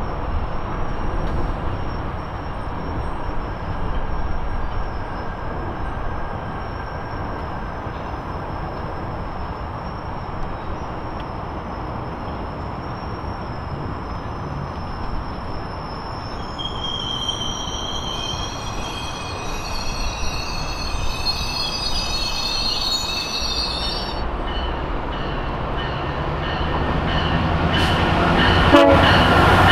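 GO Transit bilevel commuter train rolling past with a steady rumble and high-pitched wheel squeal; the squealing thickens into several tones in the latter part, then stops abruptly. Near the end, a locomotive-hauled GO train approaches, its rumble growing louder with sharp clicks from the wheels.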